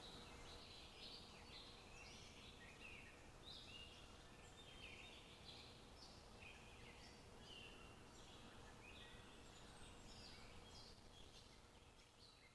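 Faint chorus of many birds chirping, short calls overlapping continuously over a steady background hiss, the whole fading out near the end.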